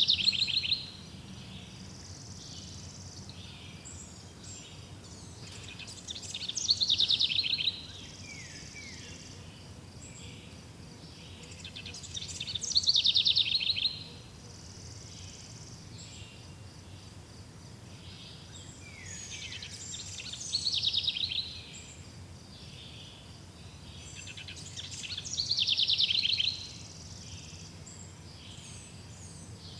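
A songbird singing the same fast trilled phrase five times, about every six seconds; each phrase runs a second or two, swells, and sweeps down in pitch before stopping abruptly. Between phrases there is a faint steady background hiss with soft high chirring.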